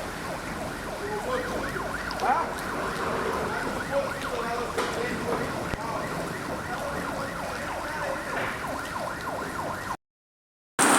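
Steady rush of flooding water and rain, with many short wailing tones rising and falling over it; near the end the sound cuts out to silence for almost a second.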